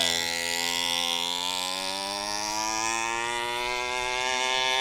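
Small 49cc two-stroke mini dirt bike engine running with a steady high whine, its pitch rising gradually as the bike accelerates along a straight run.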